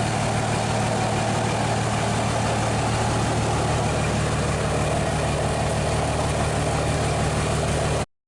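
An engine idling steadily with a constant low hum, cutting off suddenly near the end.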